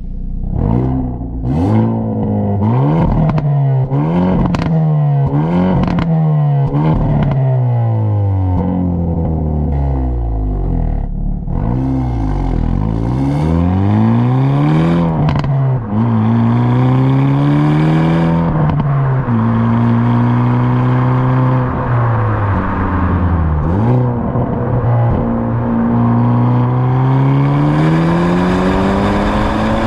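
2022 Hyundai i30 Sedan N's 2.0-litre turbo four-cylinder being revved hard. It starts with a fast run of sharp rev blips, each rising and falling within about a second, then changes over to longer climbs in revs held steady for a few seconds, broken by brief dips.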